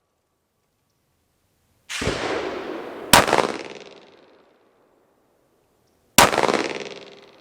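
Three 9mm shots from a Glock 19 pistol, about two, three and six seconds in, each dying away in a trailing echo.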